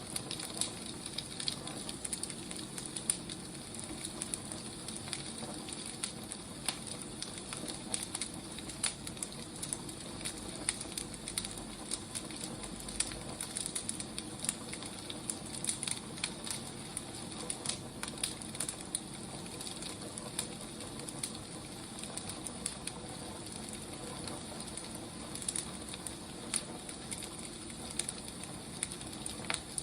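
Wood fire crackling: a steady soft hiss with frequent irregular pops and snaps from burning logs.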